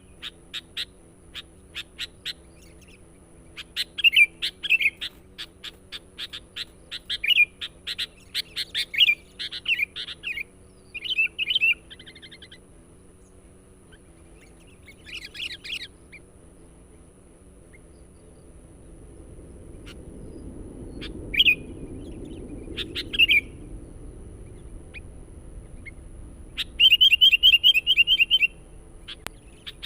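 Sooty-headed bulbul (kutilang) calling in bursts of short, clear chirping notes, with a lull of several seconds midway and a fast rattling trill near the end.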